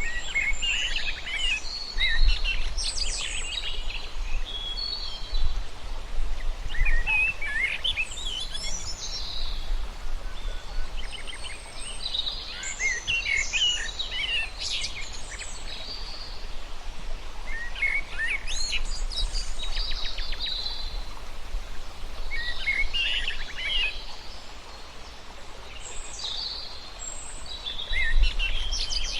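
Birds singing in short, quick, high phrases every few seconds, over a steady low rumble.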